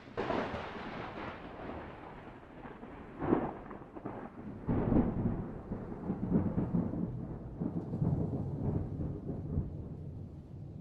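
Thunder: a crack that breaks in suddenly, a second sharp crack about three seconds in, then a long low rumble that rolls on with uneven swells.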